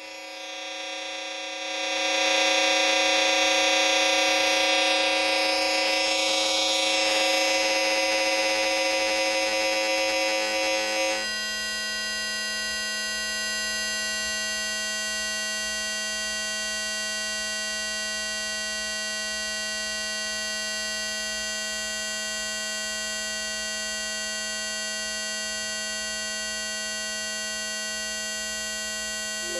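A steady, buzzing electronic tone with many overtones. It swells up over the first two seconds, then about eleven seconds in switches suddenly to a lower, quieter steady tone that holds on.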